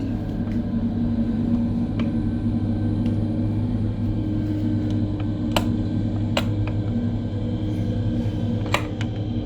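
Steady low drone of heavy snow-removal machinery engines running, with a few sharp clicks.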